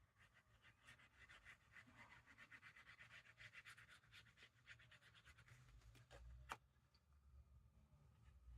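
Faint, quick scratching strokes, about seven a second for five or six seconds, then a single sharp click.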